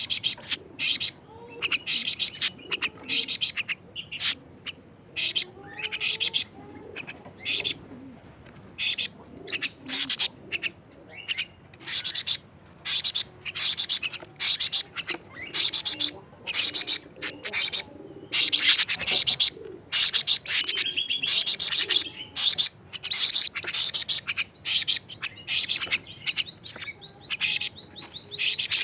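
Kedasih (plaintive cuckoo) chirping sharply and high-pitched, in quick clusters of notes that repeat about once a second.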